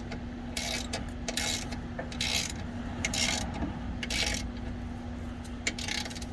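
Ratchet wrench clicking through repeated strokes, about one a second for the first few seconds, then a few lighter clicks near the end, over a steady low hum.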